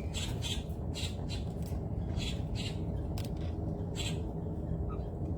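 Birds squawking: a series of short, harsh calls, about two a second and often in pairs, over a steady low rumble.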